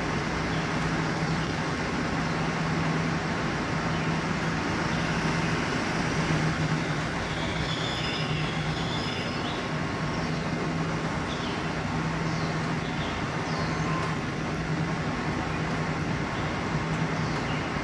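Steady urban traffic noise with a constant low hum. A few faint, short bird calls come through in the middle.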